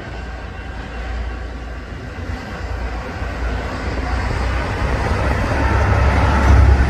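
Diesel locomotives of a grain train powering up as it departs, a low engine rumble growing steadily louder.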